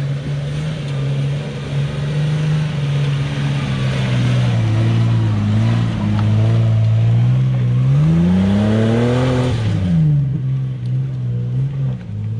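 Four-wheel-drive's engine running under load: it holds a steady pitch, dips a little, then revs up over about a second and a half and falls off abruptly about ten seconds in, settling back to a quieter, lower run.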